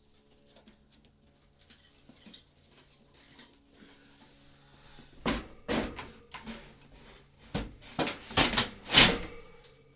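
A window air conditioner's chassis being slid into its sheet-metal wall sleeve. Light knocks at first, then from about halfway a series of loud metal scrapes and clunks as the unit goes in.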